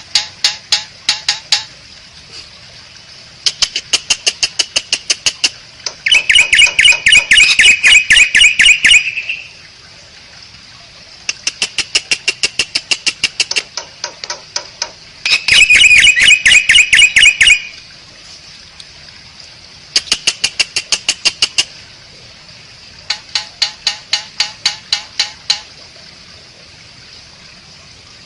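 Asian pied starling (jalak suren) calling in repeated bursts of rapid chattering notes, each burst about two seconds long with short pauses between. Two of the bursts are louder and more ringing.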